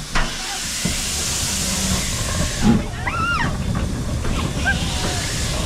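Steam locomotive hissing steam over the low rumble of the train; the hiss eases about two and a half seconds in. A short high rising-and-falling call is heard about three seconds in.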